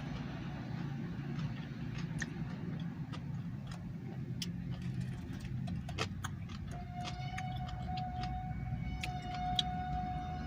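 Steady low engine hum, as in a car cabin, with scattered small clicks and smacks of eating. About two-thirds of the way in, a steady high tone starts and holds.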